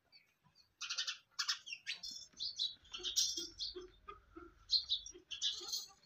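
Small birds chirping, a rapid run of short high chirps that starts about a second in and carries on busily.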